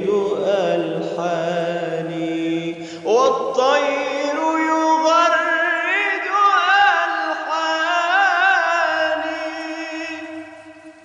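Male munshid singing an Islamic devotional chant (inshad) in long, ornamented melismatic lines with wavering vibrato. A new phrase enters with a rising swoop about three seconds in, and the voice fades out near the end.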